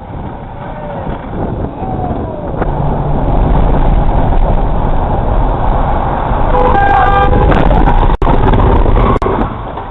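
Loud, steady road and engine noise from a moving car, with a car horn sounding a few short blasts about seven seconds in.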